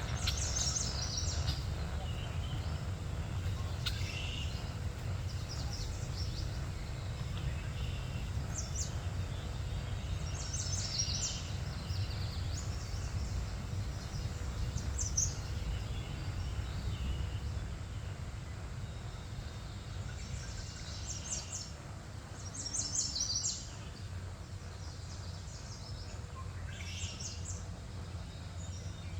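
Small birds chirping in short, high clusters every few seconds over a steady low rumble.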